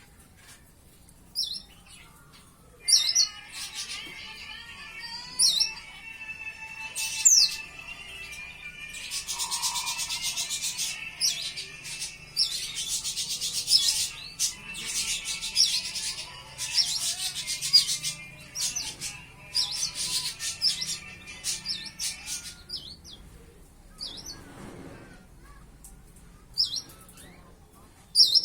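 A young white-eye (pleci) giving short sharp high calls, then a long run of rapid twittering song from about three seconds in, falling back to single calls over the last few seconds. The bird is about five months old and just beginning to learn its extended song.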